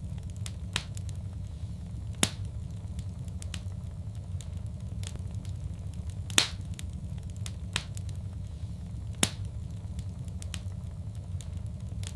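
Wood fire crackling in a fireplace: a steady low rumble with scattered small crackles and a few sharper pops, the loudest about two, six and nine seconds in.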